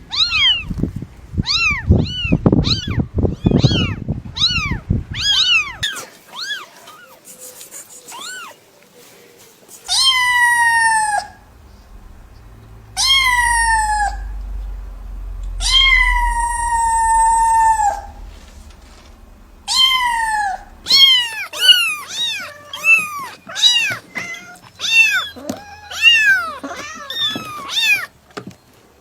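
Domestic cats meowing. It opens with a rapid run of short, high mews, about three a second, then four long drawn-out meows that fall in pitch, then quick short mews again.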